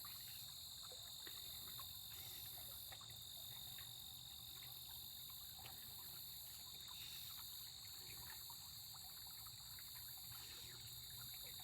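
Faint, steady high-pitched chorus of crickets, with a few scattered faint ticks.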